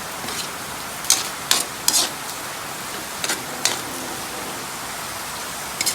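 Pork and chicken liver sizzling steadily in hot oil in a pan, with a few short sharp clicks from stirring or spitting oil.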